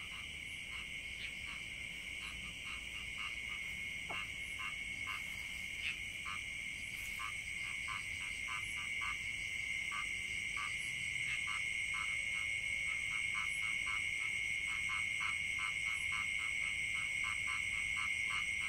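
Night chorus of frogs in flooded rice paddies: many short calls repeating irregularly, several a second, over a steady high-pitched trill that runs without a break. The chorus grows slowly louder.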